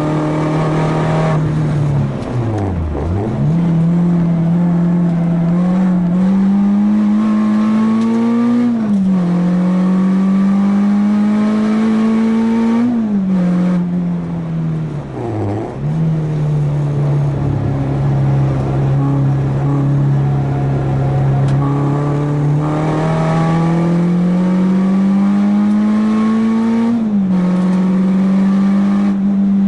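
Four-cylinder car engine being driven hard on a race track, its pitch climbing steadily under acceleration and dropping sharply at three upshifts. Twice the revs fall away steeply and recover as the car slows for corners.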